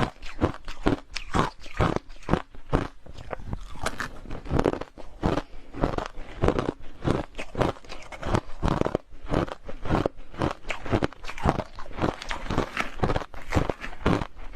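Close-up chewing of hard crushed ice: a fast, irregular run of loud crunches, several a second, as the ice pieces crack between the teeth.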